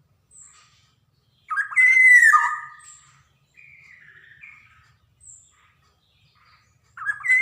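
Black-naped oriole (kepodang) singing: a loud whistled phrase that slides downward about a second and a half in, repeated near the end, with softer short high notes between.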